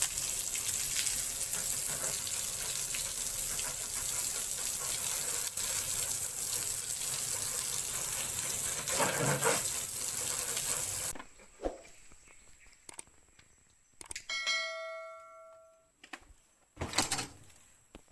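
A loud steady hiss for about eleven seconds, cutting off suddenly. A few seconds later comes a single bell-like ding that rings and fades, then a short knock near the end.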